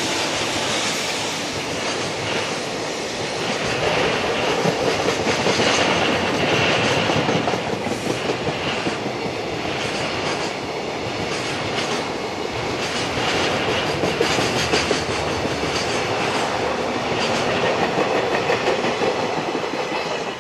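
Container wagons of a freight train rolling past on electrified track, a steady rush of wheel-on-rail noise with repeated clicks as the wheels cross the rail joints.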